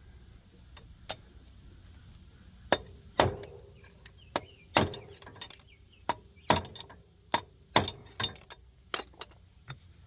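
Hammer blows on metal, about a dozen at an uneven pace and often in quick pairs, some leaving a short ring.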